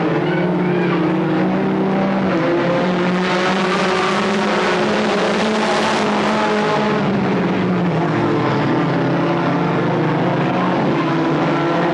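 Stock car engines running on the track, a steady loud drone that swells louder and brighter for a few seconds in the middle.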